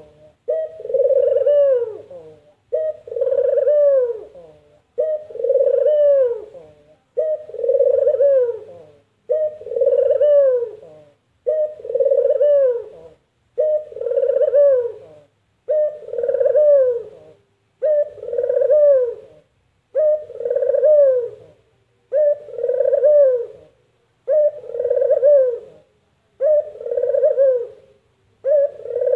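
Burung puter (Barbary dove) cooing its repeated "kuk-geruuuk" call, one call about every two seconds, each ending in a falling tone.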